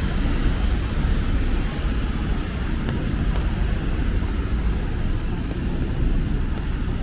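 Steady low rumble of city traffic on wet streets, with an even rain hiss over it and a few faint ticks about three seconds in.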